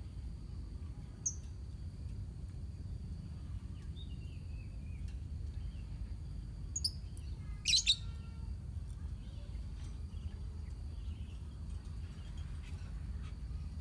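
Lovebirds in a colony chirping sporadically, with one loud, sharp squawk about eight seconds in, over a steady low background hum and a faint steady high tone.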